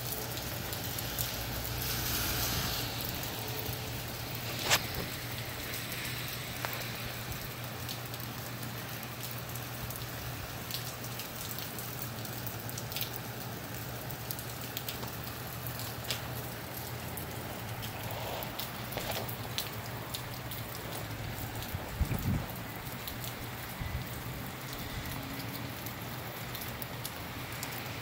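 Steady rain falling in gusty wind, with the rush briefly swelling a couple of seconds in. Scattered sharp taps of drops stand out above it, the loudest about five seconds in and another near twenty-two seconds.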